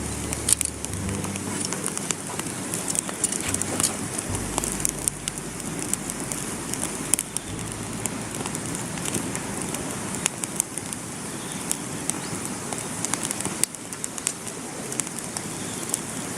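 Wood campfire crackling, with frequent irregular sharp pops and snaps over a steady hiss.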